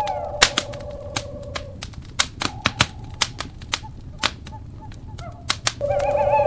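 Wood fire crackling with sharp pops. Over it runs a long, steady owl hoot that stops about a second and a half in; a fainter call follows, and the hooting returns, wavering, near the end.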